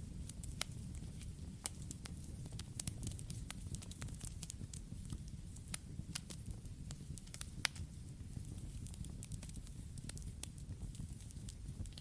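Campfire burning: a steady low rumble of flames with many irregular sharp crackles and pops from the burning wood.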